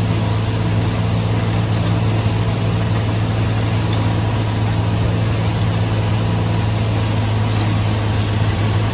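John Deere 4230's six-cylinder diesel engine running steadily, driving a New Holland 355 grinder-mixer whose hammermill runs along with it as one loud, unbroken drone.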